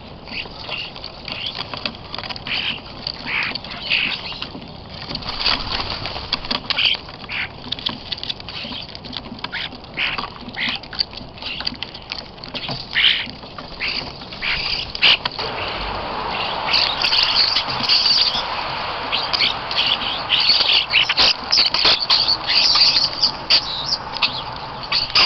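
Small birds chirping in many short, high calls, with scattered clicks between them. A steady rushing noise joins about two-thirds of the way through.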